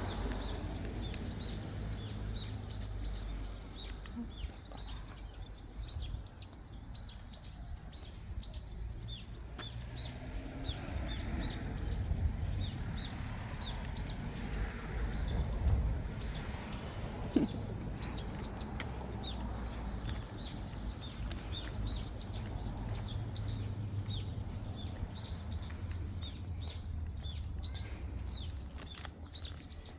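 Small birds chirping over and over, many short high notes throughout, over a steady low rumble. One sharp click past the middle.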